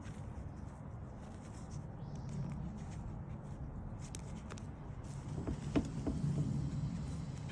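Light rustling of shredded paper bedding with scattered small clicks and taps, from hands working in the bottom of a bird cage. The handling is busiest and loudest about five to six seconds in.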